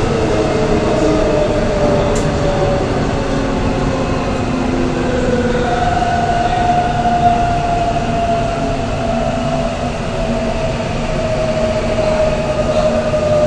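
Korail 3000-series electric subway train running, with a steady rumble of the wheels on the rails and a motor whine whose pitch falls slowly.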